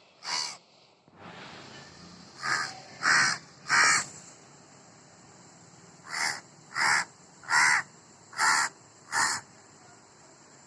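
A crow cawing: a single harsh caw, then a series of three and a series of five, evenly spaced.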